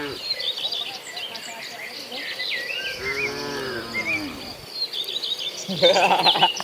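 A cow mooing once, a long low call about three seconds in that sags in pitch at its end, with small birds chirping throughout. A louder, noisier jumble of sound comes near the end.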